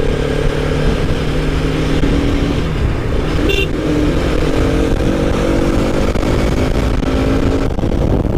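Motorcycle engine running while riding, under heavy low wind rumble, its pitch rising slowly over the second half as it speeds up. A brief high tone sounds about three and a half seconds in.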